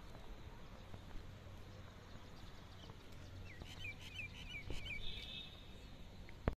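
A small bird chirping: about three and a half seconds in, a quick run of about six short rising chirps, then a brief higher note, over faint outdoor background noise.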